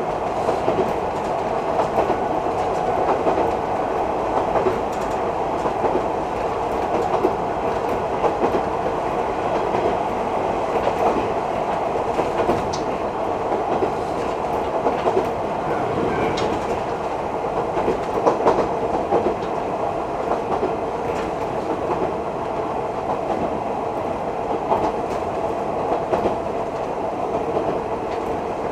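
Nagano Electric Railway 3500 series electric train running between stations, heard from inside the passenger car: a steady running noise with occasional short clicks from the wheels on the track.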